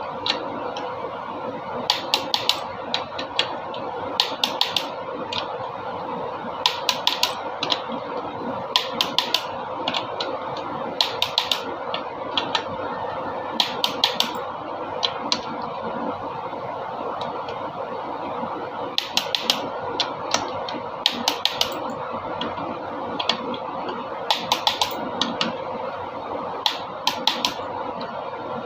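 Sharp clicks in quick groups of three or four, repeating about every two seconds, over a steady hum.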